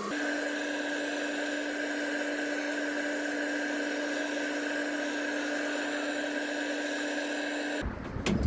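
An electric motor, as in a small power tool, running at one steady speed: a steady hum with a high whine over a hiss. It stops abruptly near the end, followed by a few sharp clicks.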